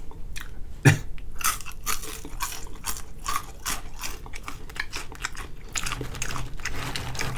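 Close-miked chewing of crunchy food, a fast run of crisp crackles and wet mouth sounds.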